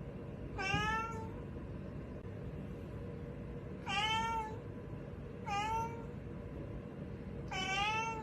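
Domestic cat meowing four times, each meow short and a few seconds apart, over a faint steady hum.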